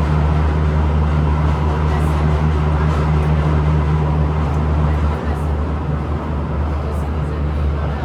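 Cabin noise of a Kawasaki-CRRC CT251 metro train running, a steady low hum from the traction motors and wheels on rail. The set's wheels have flat spots. The noise drops a little about five seconds in.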